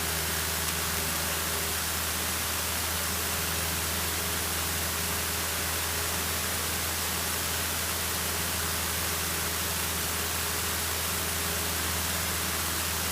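Steady hiss over a low, even drone: a Cessna 152's engine in cruise, heard through the headset intercom while the radio frequency is quiet.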